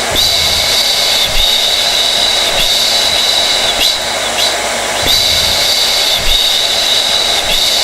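Hair dryer running steadily: a constant rush of air with a high-pitched motor whine.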